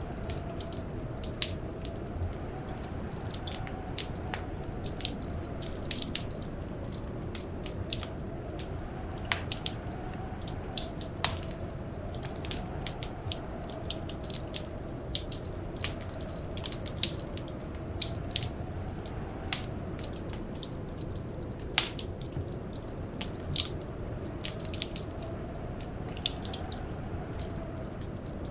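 Wood fire crackling: irregular sharp pops and snaps, several a second, over a steady soft hiss, with a faint wavering whine underneath.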